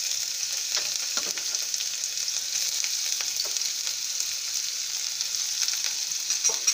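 Chopped onion frying in hot oil with mustard seeds: a steady sizzle with a few light crackles.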